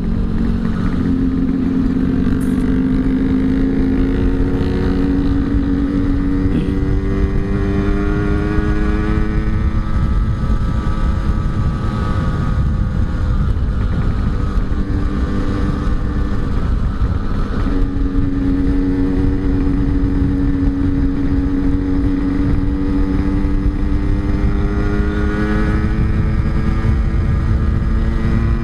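Yamaha RX-King two-stroke single-cylinder engine running on the move, its note climbing slowly as the bike gains speed, easing off midway and then climbing again, under heavy wind rumble on the microphone.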